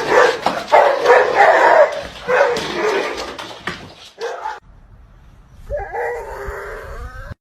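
A dog barking repeatedly for about four seconds. After a sudden break, a longer drawn-out dog call follows near the end.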